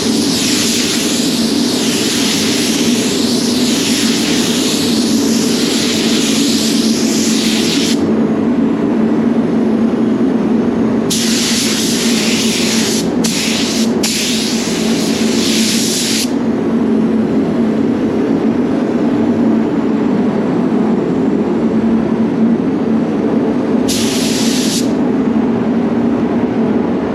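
Paint spray gun hissing as clear coat is sprayed: one long pass of about eight seconds, several shorter passes a few seconds later and a brief one near the end. Under it the spray booth's fans keep up a steady drone.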